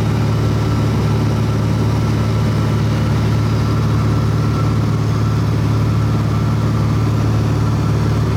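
Aircraft engine and propeller droning steadily, heard from on board, with a strong low hum that stays even throughout.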